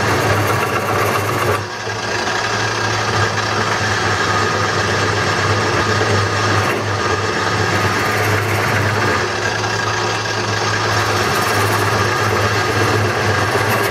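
Wood lathe running while a skew chisel cuts a spinning bowl blank of wet wood: a steady motor hum under a continuous rough cutting noise, dipping briefly about one and a half seconds in. The turner does not know what the noise is and suspects the skew's metal against the wet wood.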